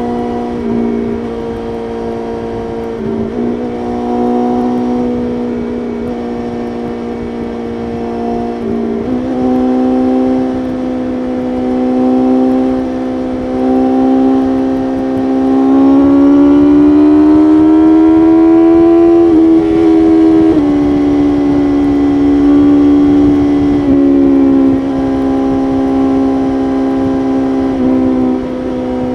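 BMW S1000RR's inline-four engine running at high revs at highway speed, heard from on the bike. The pitch climbs steadily a little past the middle as the bike accelerates, then drops sharply about two-thirds through at a gear change, with a few short dips in the note elsewhere.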